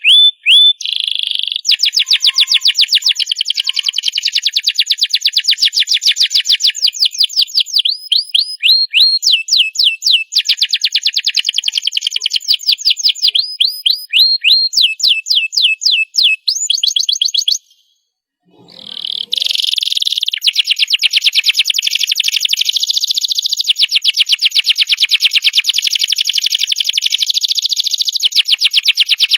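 Domestic canary singing: long rolling trills of rapidly repeated high notes, with slower runs of swooping notes in between. The song breaks off for about a second roughly eighteen seconds in, then resumes in long fast trills.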